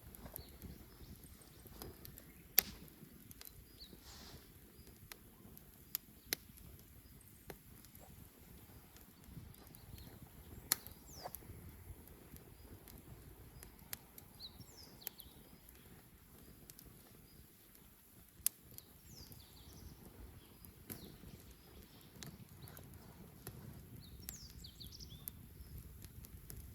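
Bonfire of burning wood crackling, with scattered sharp pops every second or two, a few of them much louder, over a low, steady rumble of the flames.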